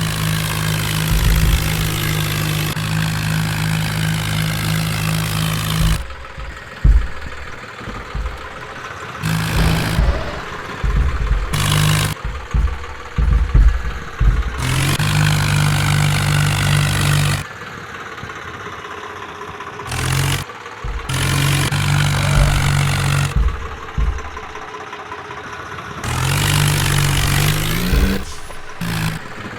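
Tractor diesel engine running, its steady low note breaking off and coming back several times, with clattering stretches in between.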